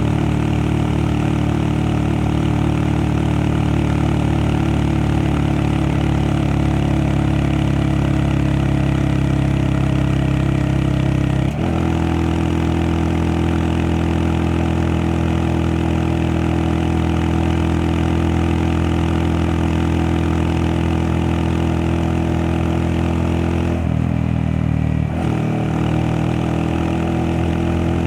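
Honda Monkey 125's single-cylinder engine running steadily while riding. The revs change with a brief break a little before halfway, and they dip again near the end before climbing, as when shifting gear.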